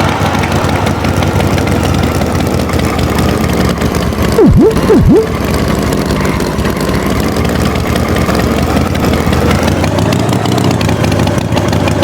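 Tractor engine running steadily at idle. About four and a half seconds in, two quick swooping tones dive low and come straight back up; these are the loudest sounds.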